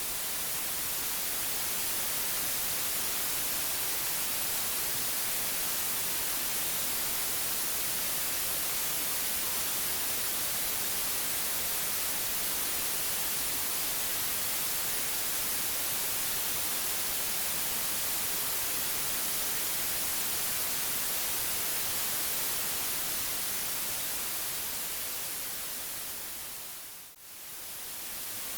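Steady white noise: an even hiss that is strongest in the high frequencies. Near the end it fades down to a brief dip and swells back up.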